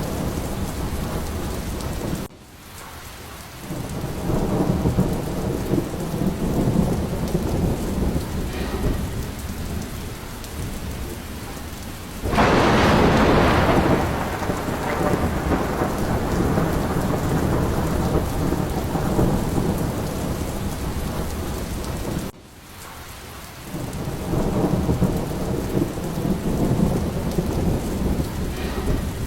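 Steady rain falling, with low rolling thunder rumbling under it. A louder peal of thunder comes about halfway through. Twice the whole sound drops away abruptly and swells back up.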